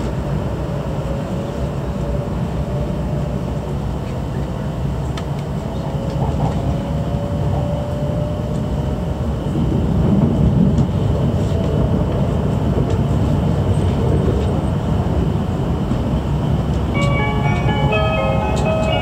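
Cabin noise of an E7/W7-series Hokuriku Shinkansen train at speed: a steady low rumble, with a faint whine rising slowly in pitch through the first half. Near the end a short chime melody starts, the signal that an onboard announcement is coming.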